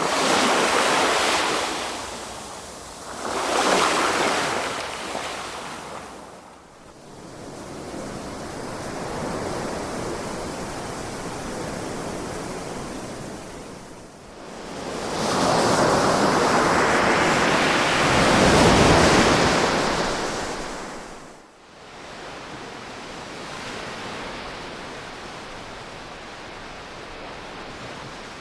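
Ocean waves washing onto a shore, the surf swelling and ebbing. Two surges come in the first few seconds, and a longer, louder one builds about halfway through and holds for several seconds before falling away into a softer wash.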